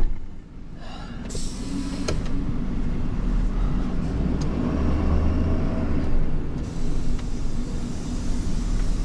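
Vehicle engine running at a steady low idle, slightly stronger around the middle, after a sharp knock right at the start.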